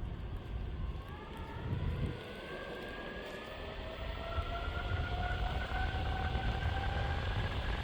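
Meepo Hurricane electric skateboard's motors whining as it accelerates: the pitch rises from about a second in, then levels off and holds steady as the board cruises. Under it is a low rumble of the honeycomb wheels on the road and wind.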